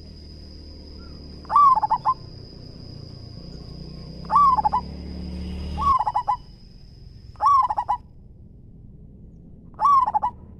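Zebra dove cooing: five short rolling coo phrases a couple of seconds apart, each a quick run of notes. A steady thin high tone runs behind them and stops about three quarters of the way through.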